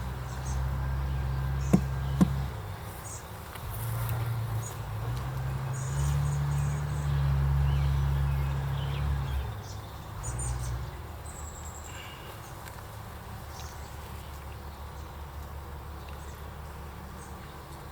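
Honey bees buzzing around an open hive during a frame inspection. A low rumble comes and goes through the first half, and two sharp clicks sound about two seconds in. Faint high chirps appear here and there.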